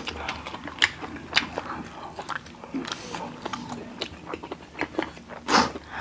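Close-miked chewing: a string of short wet mouth clicks and smacks from eating spicy noodles and sausage, with one louder noisy burst near the end.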